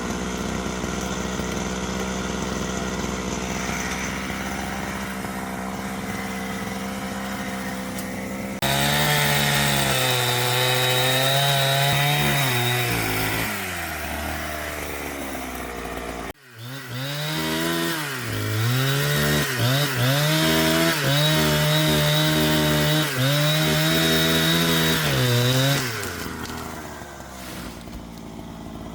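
A steady engine hum, then a two-stroke chainsaw revving up and dropping in pitch as it cuts through wood. It cuts off suddenly about halfway, comes back revving up and down through more cuts, and eases off near the end.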